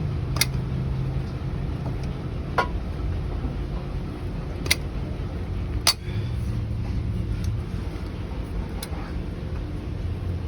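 Steady low rumble of a car repair shop, with about five short sharp clicks or knocks of hand work on the car spread through it.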